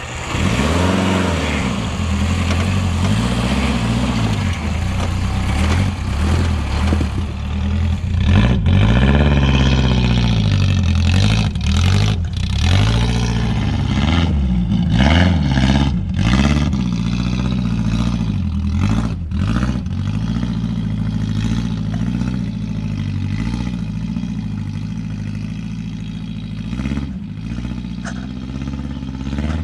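Off-road 4x4 vehicle's engine running under load, its revs rising and falling again and again as it drives the trail, with several sharp knocks and clatters along the way.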